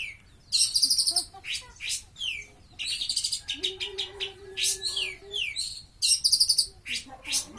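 Long-tailed shrike singing a rapid, varied song of harsh high buzzy bursts, short falling whistles and quick chattering notes, with a steady low drone for about two seconds in the middle.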